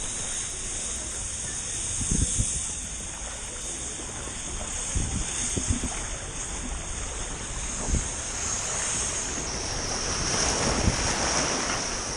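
Steady rush of splashing water at a water-park play area, with wind buffeting the microphone in a few low thumps.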